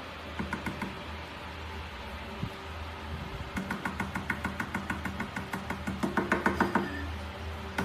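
A dog scratching and pawing rapidly at a door, about six or seven strokes a second. A short run near the start is followed by a longer run that grows louder, over a steady low hum.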